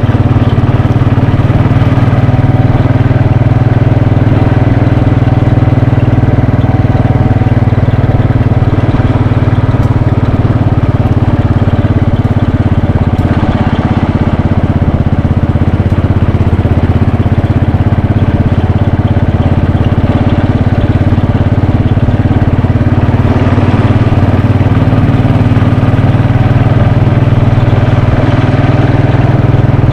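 Royal Enfield Bullet 500's single-cylinder engine running steadily under way, its level dipping slightly around the middle.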